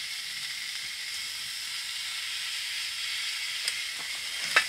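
Honeycomb-cut pork belly sizzling on a pan on a wood-burning stove: a steady frying hiss, with a few light clicks near the end.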